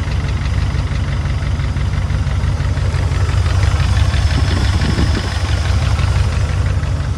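P38 Range Rover engine idling steadily with a rapid, even ticking from the valve train, the sign of a sticking hydraulic lifter or valve, loudest on the right side of the engine.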